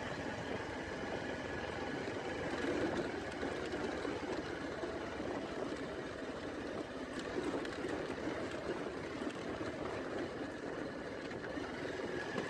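Motorcycle engine running steadily while riding along a rough dirt track.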